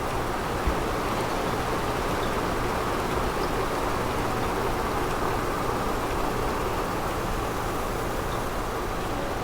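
Steady office background noise, an even hiss-like hum with a low drone under it, and one short knock about a second in.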